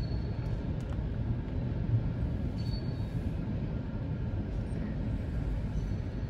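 Freight train of tank cars rolling through a railroad crossing: a steady low rumble of steel wheels on the rails, heard through the windshield of a stopped car.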